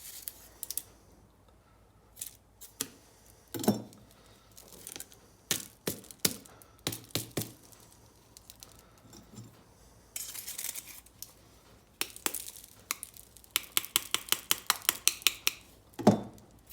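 Hard plastic parts of a cut-open cartridge water filter being handled: scattered clicks, knocks and crinkly rubbing, with a quick run of rattling clicks near the end and a louder knock just before it ends.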